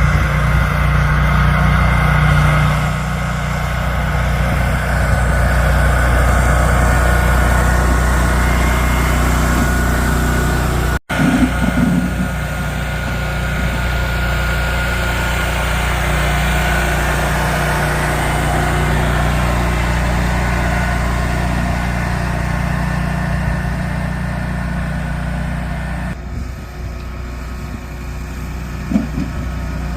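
Plow truck engine running steadily while pushing snow. There is a brief cut about eleven seconds in, and the sound drops and changes near the end.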